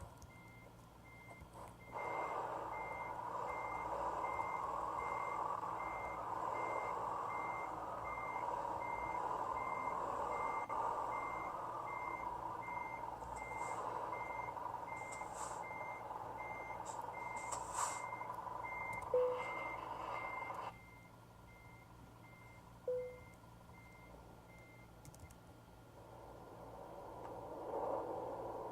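Truck reversing alarm beeping evenly, about two beeps a second, stopping near the end. Under it, a loud steady noise starts about two seconds in and cuts off abruptly about two-thirds of the way through.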